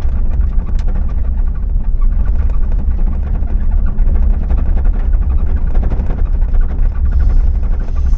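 A vehicle driving: a steady low rumble of engine and road noise, with a few faint clicks and rattles.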